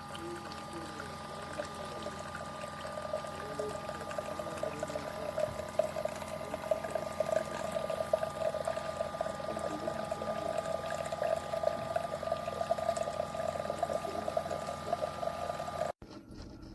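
Keurig K-Mini single-serve coffee maker brewing: a steady pump hum under coffee streaming into the cup, the pouring growing stronger a few seconds in. The sound cuts off suddenly near the end.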